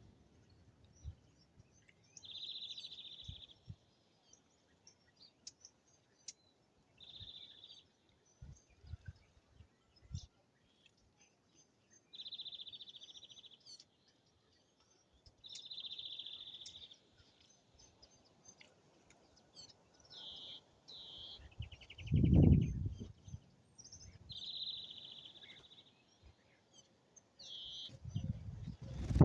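A bird giving buzzy, rapidly pulsed calls about a second long, repeated every few seconds. A loud low rumble breaks in once, about two-thirds of the way through.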